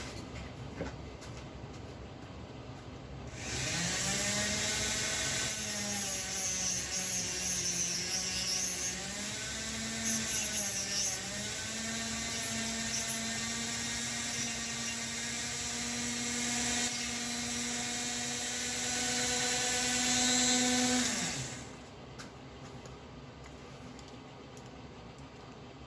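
Small high-speed rotary tool running for about eighteen seconds, starting a few seconds in and stopping suddenly; its whine dips in pitch and recovers several times as it bears on the work, grinding a model locomotive axle down to length.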